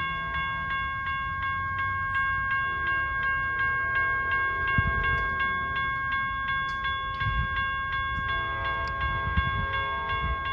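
Electronic railroad crossing bell ringing steadily at about three strikes a second, with the low rumble of a train and a few heavier thumps underneath.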